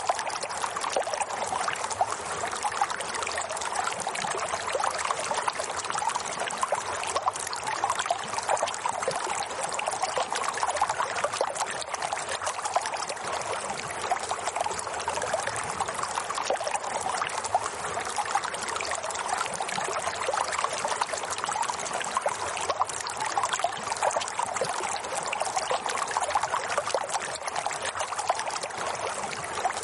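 Water flowing and trickling steadily, an even, unbroken rush of running water.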